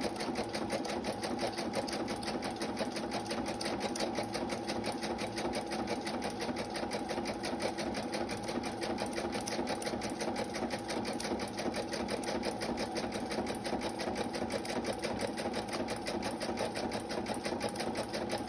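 Electric sewing machine running steadily, stitching through a paper bag and an image: rapid, even needle strokes over a constant motor hum.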